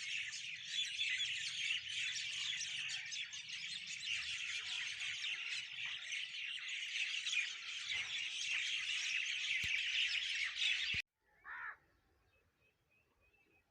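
A dense chorus of many small birds chirping and singing together, which cuts off suddenly near the end; then a single short call and faint quiet.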